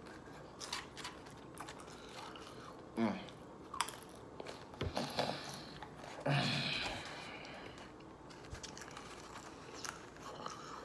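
Close-up chewing and mouth sounds of someone eating a wet burrito, with scattered clicks and scrapes of a fork and knife against a foam takeout container.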